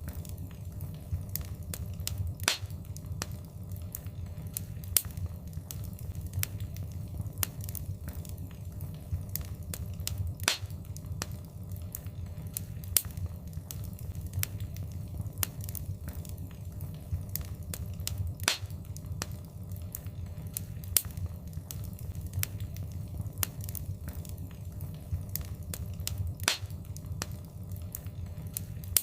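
Wood fire in a fireplace crackling: frequent irregular sharp pops and snaps, a few much louder than the rest, over a steady low rumble of the flames.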